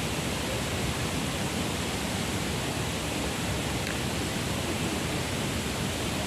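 Strong wind rushing steadily, with an uneven low rumble of gusts buffeting the microphone.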